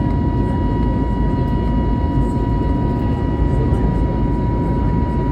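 Steady cabin noise of an Airbus A320neo airliner: a deep, even rumble of engines and airflow with a constant high tone held above it.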